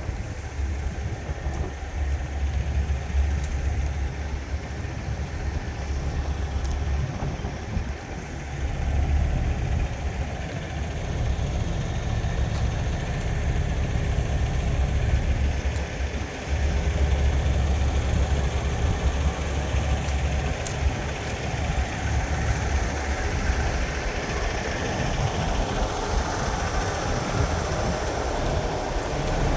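Heavy diesel semi-truck engine running with a deep, steady rumble.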